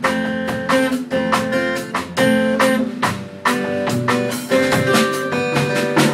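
Upbeat guitar music: a quick picked guitar riff over strummed chords with a drum beat, no singing.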